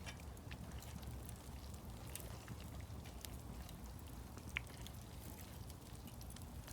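Faint scattered pops and crackles over a low steady hum, from a small wood fire and the pan cooking over it, with one slightly sharper click about four and a half seconds in.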